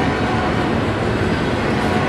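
Double-stack intermodal freight train rolling past close by: a steady, loud noise of steel wheels on rail under the loaded well cars.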